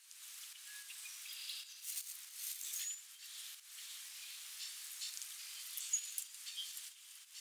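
A few short, high chirps from small birds in the distance over a steady hiss, with scattered faint clicks and rustles.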